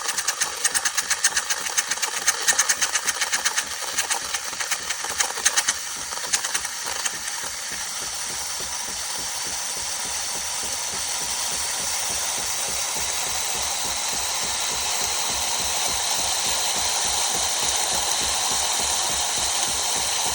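Philips Series 3300 automatic espresso machine running: a fast, rattling pulse for about the first seven seconds, then a steady hissing whir that slowly grows louder.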